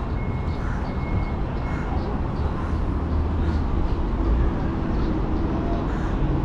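Street ambience: steady rumble of road traffic, with faint voices in the background.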